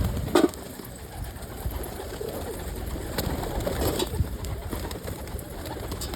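Domestic pigeons cooing: several low coos, the loudest just under half a second in, with a few faint clicks among them.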